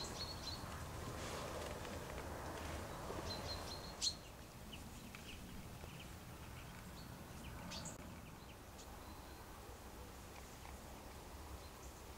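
Faint woodland ambience with a small bird giving short, high chirps now and then, and a single sharp click about four seconds in. A soft rustling hiss fills the first few seconds.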